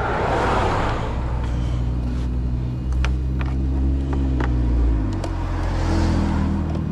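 A vehicle engine running steadily, its pitch shifting about five seconds in, with scattered light clicks and rustling from handling tools or parts.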